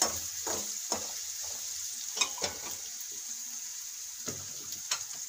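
Sliced green chillies and crushed spices sizzling in oil in an aluminium karahi. A metal slotted spoon stirs them, scraping and knocking against the pan several times.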